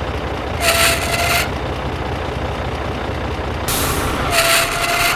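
A small engine running with a steady low chug, with two short bursts of hiss, each about a second long and carrying a steady tone, about a second in and again near the end.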